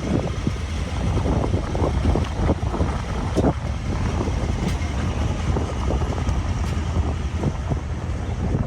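Wind buffeting the microphone: a low, uneven rumble that goes on without letting up.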